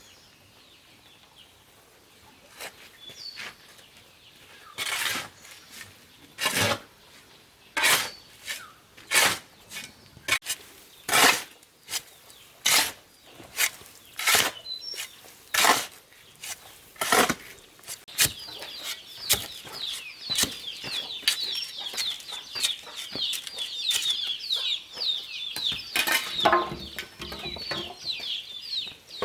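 A run of sharp knocks, about one a second, from work on the building site. About two-thirds in, a dense chorus of high, quick chirping from fowl or small birds joins them.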